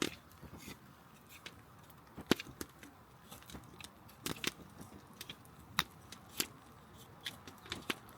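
Scattered sharp clicks and pops, irregular and a second or so apart, the loudest about two seconds in, over a faint background.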